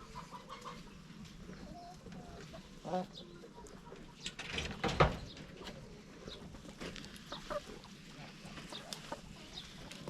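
Chickens clucking, with scattered short calls and small clicks. About five seconds in there is a loud sharp thump, with a smaller knock near three seconds.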